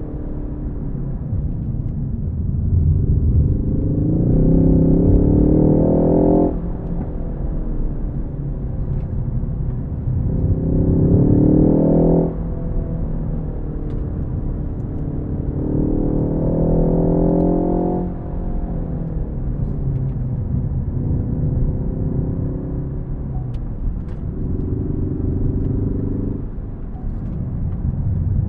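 Ford Focus ST with six-speed manual being driven hard: the engine pulls under throttle five times, each pull rising in pitch and then cutting off abruptly, the first three stronger than the last two. A steady low road rumble runs underneath.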